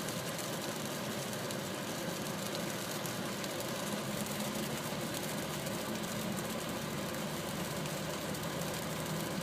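Steady motor hum with an even, unchanging drone and no separate knocks or events.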